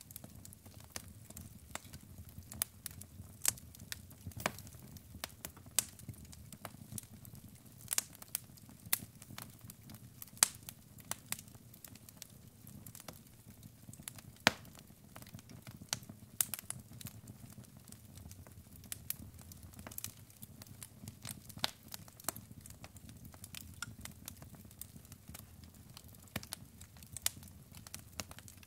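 Wood fire burning in a fireplace: logs crackling and popping in irregular sharp snaps over a low, steady rumble of the flames.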